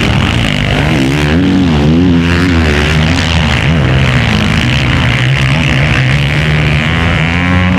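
Several motocross race bikes running hard on the track, engines revving up and down in pitch and overlapping in a loud, continuous drone.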